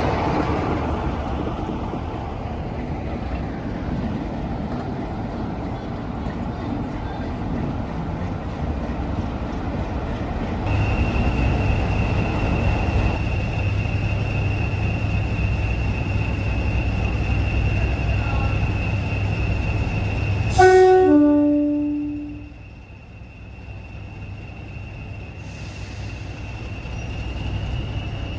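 Heritage diesel locomotive and train running with a steady rumble. From about a third of the way in, a steady high-pitched squeal sits over a low hum. About two-thirds through, a short, sharp, loud sound is followed by quieter running that slowly builds again.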